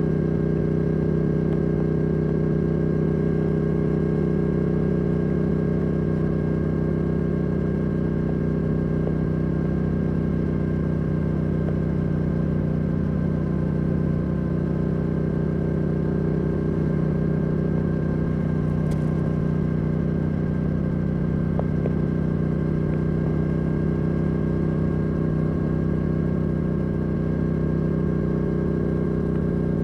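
Yamaha R7's CP2 parallel-twin engine, breathing through a Yoshimura R77 exhaust, running at a steady, unchanging engine speed with no revving, with one brief tick a little past halfway.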